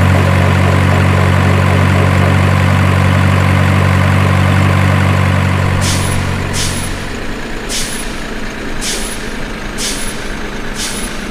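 A heavy diesel truck engine drones steadily and dies down about seven seconds in. Short, sharp air-brake hisses follow, roughly once a second.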